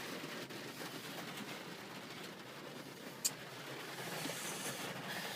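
Faint, steady background hiss with a single sharp click a little past three seconds in.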